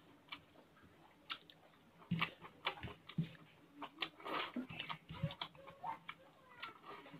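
A person eating by hand at close range: irregular chewing with soft wet clicks and lip smacks.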